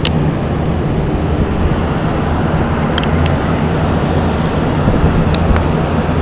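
Steady rumble of road traffic, mixed with wind on the microphone.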